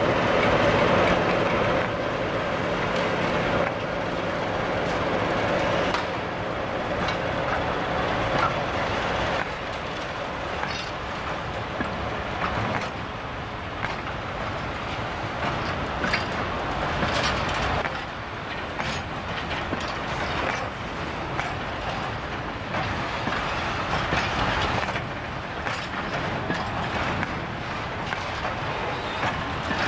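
Diesel locomotive engine humming as it goes by, fading after the first few seconds. A long rake of open-top freight wagons then rolls past with a steady clickety-clack of wheels over rail joints and a few brief high wheel squeals.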